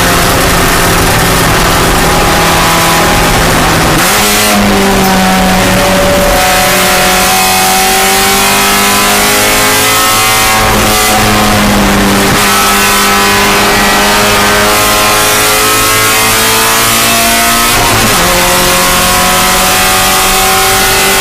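Spec Miata race car's four-cylinder engine running hard under race load, its pitch climbing and sliding between sudden steps about 4, 12 and 18 seconds in as gears change, over a steady hiss of wind and road noise.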